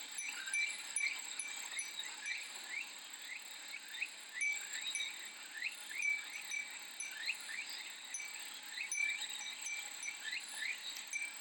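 Cicadas droning steadily in a high, pulsing buzz, with many short rising chirps around them throughout.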